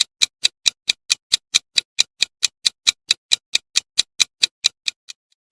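Countdown timer ticking like a clock: sharp, even ticks about four and a half times a second, stopping shortly before the end.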